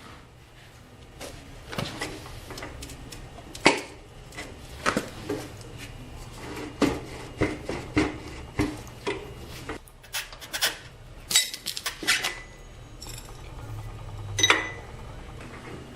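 Metal hand tools and motorcycle parts clinking and clanking, an irregular run of sharp knocks. The loudest come about a third of the way in and near the end, the last with a short metallic ring.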